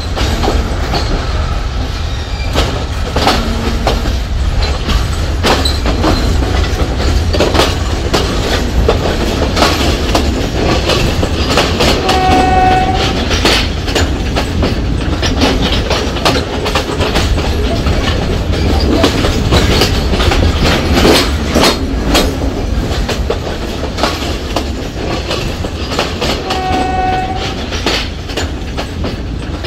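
Train running on the rails with a steady low rumble and many irregular clicks and clanks from the wheels and couplings. A short horn toot sounds twice, about twelve seconds in and again near the end.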